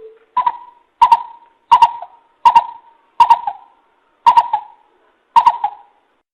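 Recorded coucal (bìm bịp) calls played as a lure: a series of short hollow hoots, about one every three-quarters of a second, some doubled, each starting with a sharp click.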